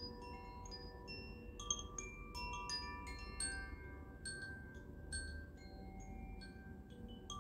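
Chimes ringing: many bright metal tones struck at random, overlapping and each ringing on for a second or more, over a low hum.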